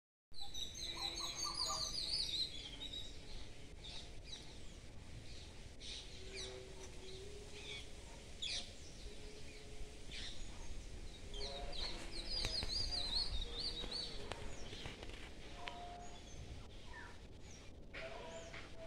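Wild birds singing and chirping, with a warbling trill near the start and another about twelve seconds in, and scattered short calls between.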